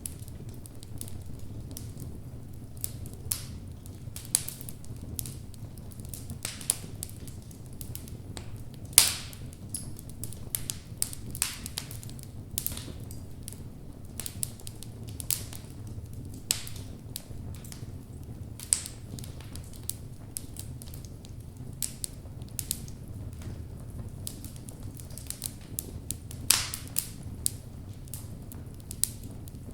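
Wood fire burning in a fireplace: irregular crackles and pops from the logs over a steady low rumble of the flames, with a sharper pop about nine seconds in and another near the end.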